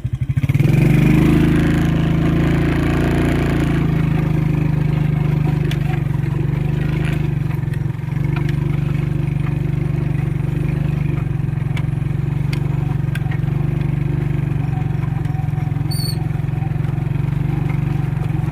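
Motorcycle engine pulling away about half a second in, then running steadily under load while being ridden along a very muddy track.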